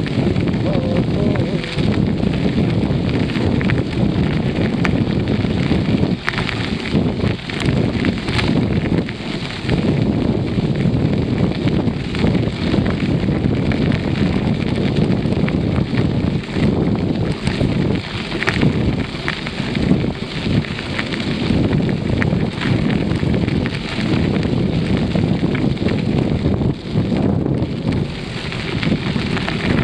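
Wind buffeting the microphone of a camera riding along on a moving bicycle: a loud, uneven rush that surges and dips from moment to moment.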